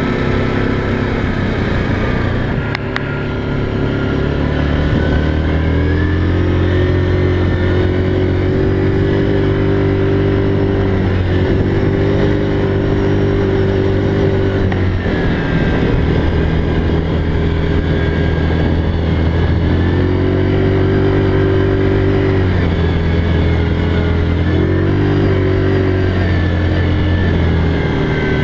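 ATV engine running under way, its pitch climbing about five seconds in and then holding steady, dropping briefly about halfway through and rising again as the throttle changes.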